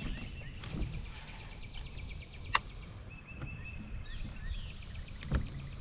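Outdoor lakeside ambience: small birds chirping over a low, steady rumble of wind, with a sharp click about two and a half seconds in.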